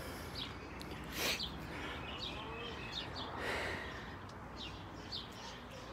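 Small birds chirping in short high notes against steady outdoor background noise, with two brief swishes, one about a second in and one after about three and a half seconds.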